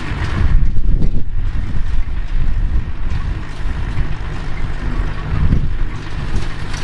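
Vintage farm machine's engine running steadily under load, with wind buffeting the microphone.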